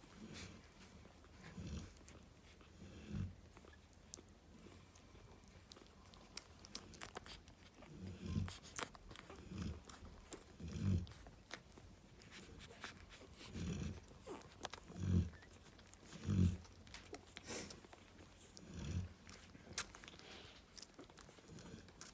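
Cane corso snoring: deep, low snores coming every second or two, some in quick pairs. Faint little clicks and smacking sounds run underneath.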